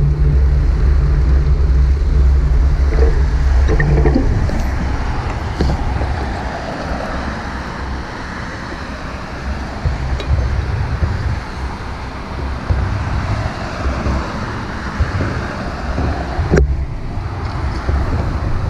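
Wind rumbling over a GoPro Hero 5 Black's microphone on a moving bicycle, mixed with road noise and passing car traffic that swells and fades. A few short knocks, the sharpest about sixteen and a half seconds in.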